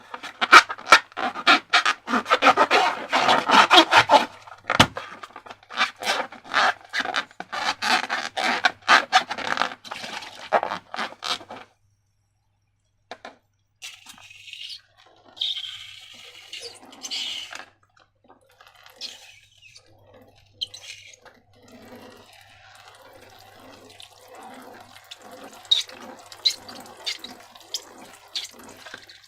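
Slime being squished and mixed: dense, rapid wet clicking and crackling, then after a brief pause about halfway, softer and sparser squelches.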